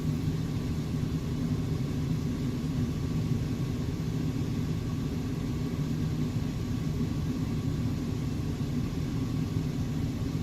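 Car driving: a steady low engine and road rumble with a constant low hum.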